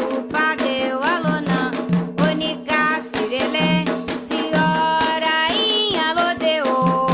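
Afro-Brazilian religious chant for Xangô: singing in Yoruba over a steady hand-drum beat.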